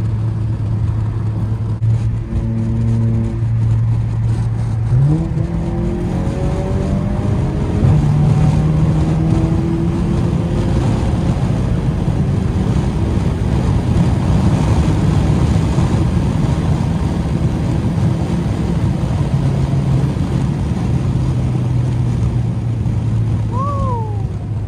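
Full-bolt-on Mk7 Volkswagen GTI's turbocharged 2.0-litre four-cylinder heard from inside the cabin at highway speed under hard acceleration. About five seconds in the revs jump up and the engine note climbs for a few seconds, then holds steady at high speed over heavy road and wind noise.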